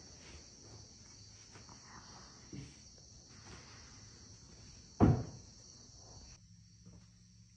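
Steady high-pitched insect chirring, with one loud, sharp knock about five seconds in and a fainter knock before it.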